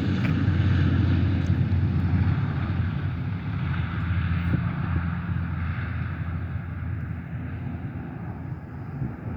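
Airliner engine noise: a steady low rumble that slowly fades as the aircraft moves away.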